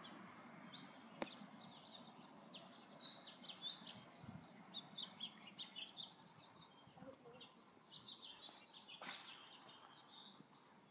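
Faint chirping of small birds: many short, high chirps scattered throughout, with a sharp click about a second in.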